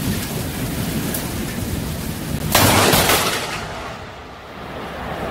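Steady rain and wind noise, then a sudden loud crack of close thunder about two and a half seconds in, fading away over about a second.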